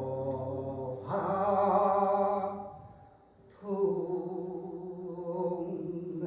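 A voice singing gueum, Korean vocalized mouth music, in long held notes with a wavering vibrato. One note swells about a second in and fades, and after a short pause a second long note starts.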